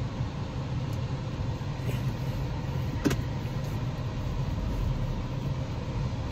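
Car engine idling, heard from inside the cabin as a steady low hum, with one sharp click about three seconds in.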